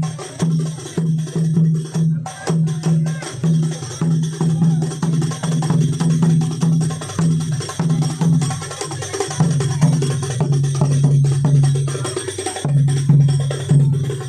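Percussion music with a steady low drum beat, about two beats a second, and sharp knocking and jingling percussion over it.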